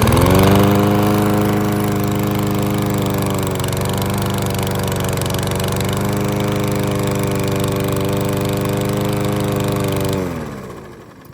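Primed Remington self-propelled lawn mower with a 140cc Powermore overhead-valve engine, catching on a single pull and running at a steady speed for about ten seconds. Near the end it is shut off and slows to a stop.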